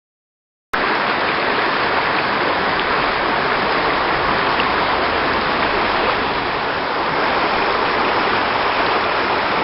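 Waterfall: a steady rush of falling water that cuts in suddenly under a second in and holds level, with no pitch or rhythm in it.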